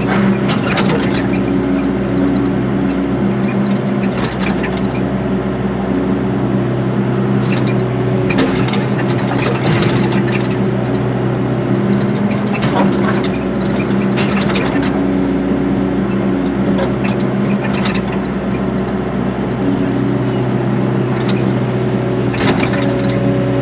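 Excavator's diesel engine running steadily, with short clanks every few seconds as it works the ground.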